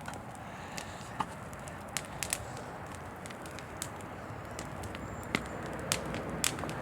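A large bonfire burning with a steady rushing noise and sharp, irregular pops and crackles, roughly one to two a second.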